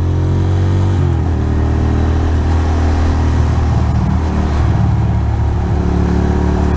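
Ducati Monster's L-twin engine running under way in traffic, its pitch rising briefly then shifting about a second in, then holding fairly steady.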